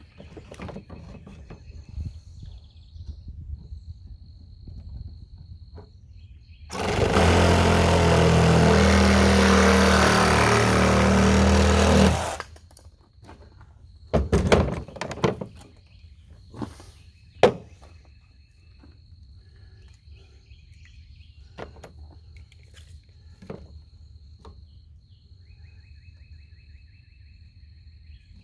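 An electric power tool runs at full speed for about five seconds, starting and stopping abruptly, during a PVC pipe build. Scattered light knocks follow.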